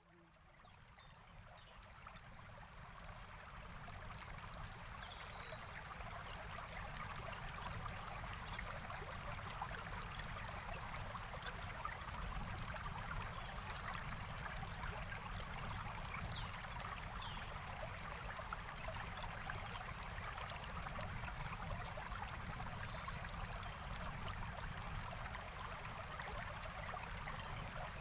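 Forest stream flowing and trickling steadily, fading in from silence over the first few seconds.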